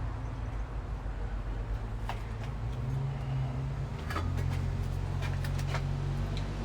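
A low engine hum that shifts pitch a couple of times, with scattered light metallic clicks from bolts and hand tools being handled.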